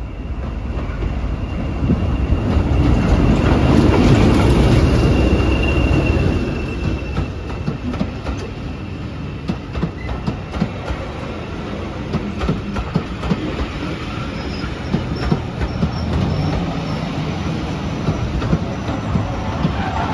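Diesel-hauled heritage train on the move, loudest about four seconds in, with a steady high wheel squeal over the first few seconds and a run of clickety-clack from the wheels crossing rail joints.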